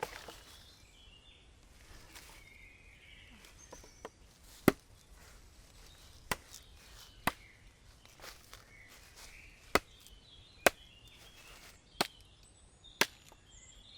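Wood being chopped: about seven sharp, separate strikes, irregularly spaced about a second apart, starting about a third of the way in.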